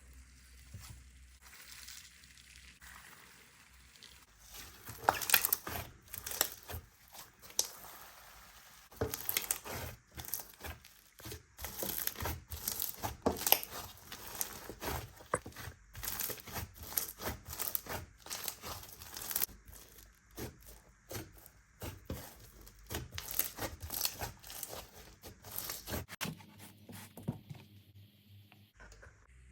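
Slime being pressed, squeezed and stretched by hand, giving irregular sticky crackles, clicks and small pops. They grow busier a few seconds in and thin out near the end.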